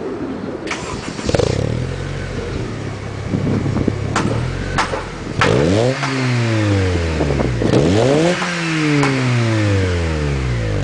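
Honda Civic Si's 2.0-litre four-cylinder running through its exhaust: a steady idle, then revved twice, each time climbing quickly and falling back slowly to idle. A few sharp clicks sound during the idle.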